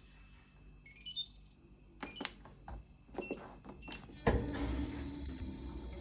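Fisher & Paykel washing machine's electronic control panel: a quick rising run of short beeps as it powers on, then a few button clicks, each with a short single beep. Just after four seconds a steady machine hum and hiss starts suddenly as the wash cycle begins.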